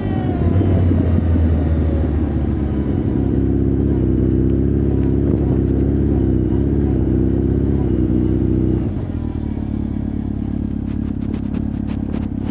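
Honda CB1300 Super Bol d'Or's inline-four engine and exhaust running steadily. About nine seconds in, the note drops and gets quieter, and a few sharp clicks come near the end.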